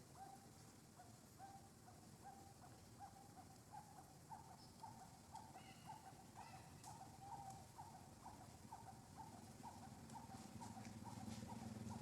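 Faint animal call: short hooting notes at one pitch, repeated evenly about two or three times a second. A low hum comes up near the end.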